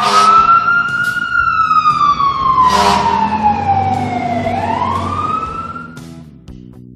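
A siren sound effect wailing: the pitch rises, then slowly falls over about four seconds and rises again near the end, over soft background music.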